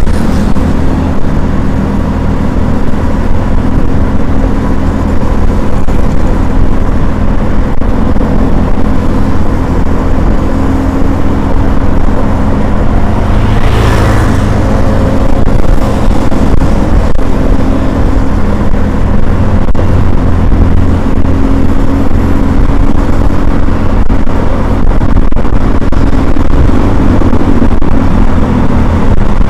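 Steady, loud rumble of a motor vehicle running, with a brief rise in rushing noise about halfway through.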